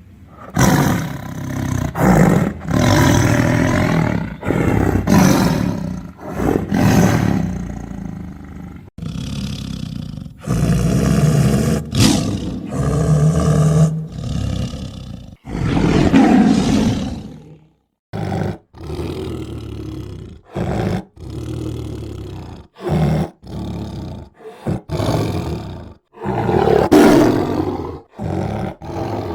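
Tiger roaring and snarling again and again: a string of loud, rough roars and growls of one to three seconds each, several of them breaking off abruptly into silence.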